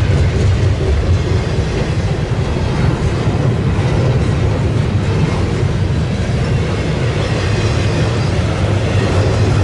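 BNSF double-stack intermodal freight train passing, a steady, loud rumble of wheels on rail and rolling cars.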